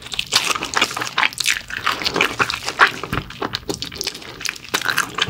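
Close-miked eating sounds: a person chewing and sucking meat off pig's trotters (jokbal) in sauce, a steady run of wet smacks and clicks.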